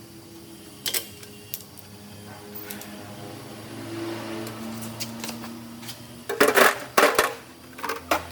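Sharp clicks and knocks over a low steady hum, with a dense run of louder knocks about six to seven seconds in.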